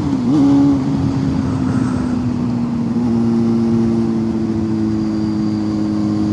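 Motorcycle engine running steadily while riding, with a brief dip and recovery in revs about half a second in and a slight change in the engine note around three seconds in.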